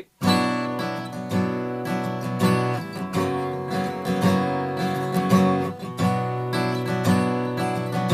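Acoustic guitar strummed, the same chord shape moved along the neck with open strings left ringing. A new strum comes about once a second.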